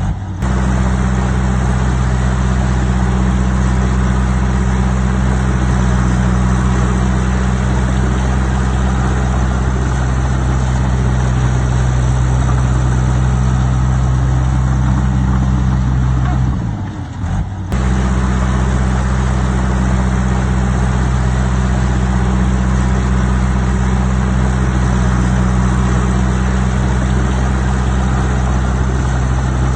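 Heavy earthmoving machine's diesel engine running steadily at an even pitch, with a brief drop in level just after the start and again about 17 seconds in.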